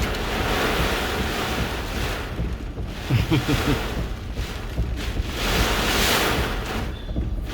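Hurricane eyewall wind blowing in strong gusts, a loud rushing noise that surges and eases several times, with wind buffeting the microphone. A brief low-pitched sound comes a little after three seconds in, at the loudest gust.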